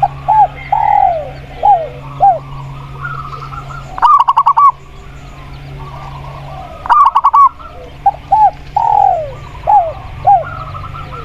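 Spotted dove and zebra dove cooing in turn over faint background birdsong: a phrase of short hooked coos with one longer falling note at the start and again near the end, and a quick run of about five staccato notes twice in the middle, at about 4 s and 7 s.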